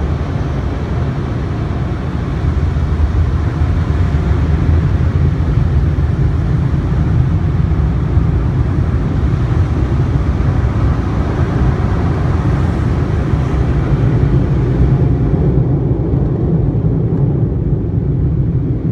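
Automatic car wash machinery running around the car, heard from inside the cabin as a steady low rumble with a hiss above it; the hiss fades about fifteen seconds in.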